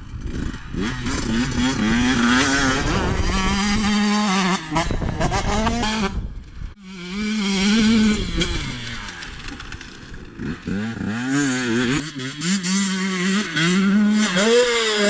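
Husqvarna TC125 single-cylinder 125cc two-stroke motocross bike being ridden, revving up and down through the throttle with its pitch rising and dropping again and again. The sound cuts out briefly a little before halfway, then picks up again. Wind buffets the microphone.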